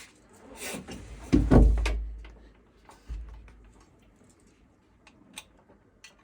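JBL S2-1224 12-inch subwoofer playing deep bass notes: one strong, long bass swell about a second and a half in, a weaker one about three seconds in, then dying away to near quiet, with scattered light clicks and knocks over it.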